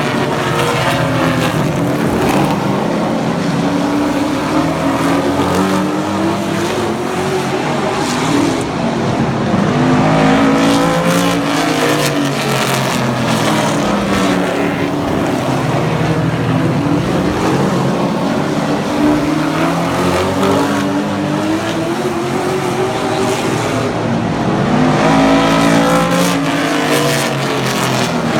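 Several super trucks' engines racing around a short oval track, their notes rising and falling through the gears and the corners. The pack passes loudest about ten seconds in and again near the end.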